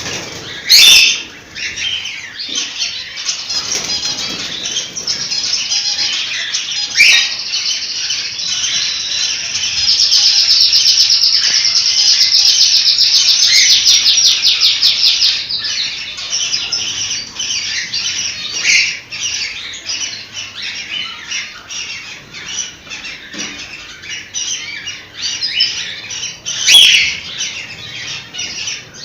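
Cockatiels chirping and warbling together in a dense, continuous chatter. A louder run of fast, evenly repeated trilling notes lasts about five seconds in the middle, and three sharp, loud calls stand out: one near the start, one about seven seconds in and one near the end.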